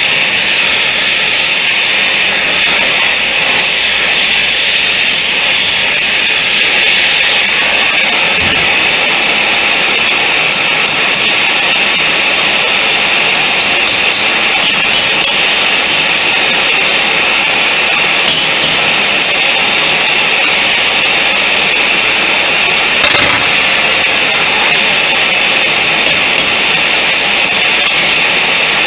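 Loud, steady rushing roar of workshop equipment during forging, with two brief knocks, one about eight seconds in and one about twenty-three seconds in.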